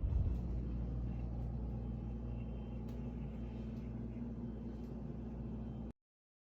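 Steady low rumble of a running vehicle engine, with a brief louder bump at the start; the sound cuts off suddenly about six seconds in.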